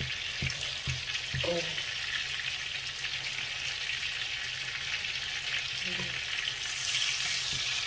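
Beef steaks sizzling as they fry in hot fat in a frying pan, with a few short knocks of a metal fork against the meat and pan in the first couple of seconds. The sizzling swells a little near the end.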